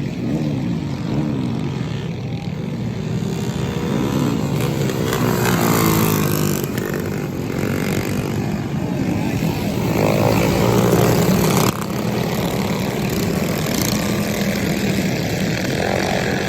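Several small pull-start mini bike engines racing, their pitch rising and falling as they rev through the turns and straights, overlapping one another. The overall level drops suddenly about twelve seconds in.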